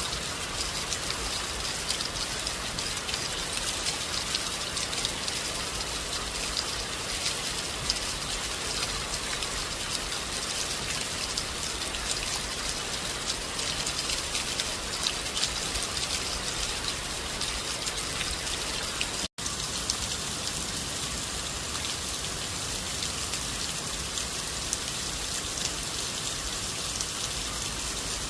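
Steady rain falling, an even hiss dense with small drop impacts. It cuts out for an instant about two-thirds of the way through, then carries on unchanged.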